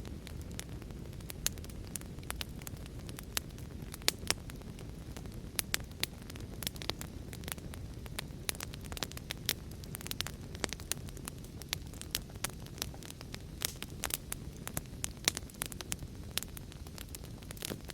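Wood fire in a fireplace crackling, with irregular sharp pops several times a second over a steady low rush.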